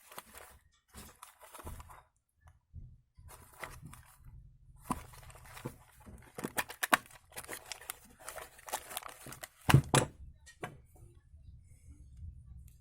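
Hand work with tools and parts: irregular clicks, light knocks and scraping or rustling, with a louder cluster of knocks a little under ten seconds in.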